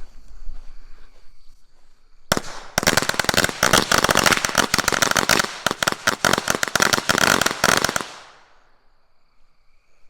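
A pack of firecrackers going off: a single bang about two seconds in, then a rapid run of bangs for about five seconds that stops suddenly.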